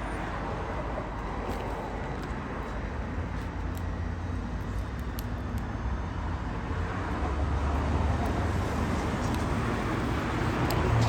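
Low exhaust rumble from a cammed, straight-piped 2008 Chevrolet Impala SS's LS4 V8 running, growing louder over the last few seconds.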